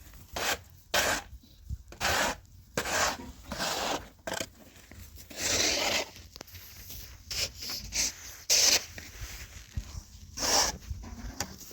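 Rough scraping or rubbing strokes repeated irregularly, about a dozen in all, with one longer stroke near the middle.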